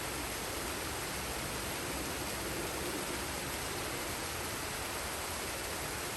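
Forest waterfall and stream: falling and rushing water making a steady, even noise with no breaks.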